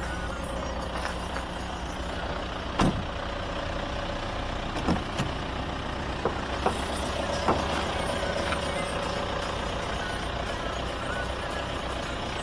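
Opel Omega 2.0 turbo-diesel engine running steadily with a low rumble, with several short sharp clicks or knocks over its sound in the middle, the loudest about three seconds in.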